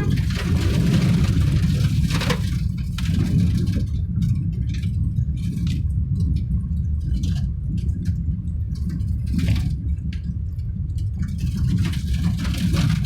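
Steady low rumble of a vehicle driving along a road, with road and tyre noise.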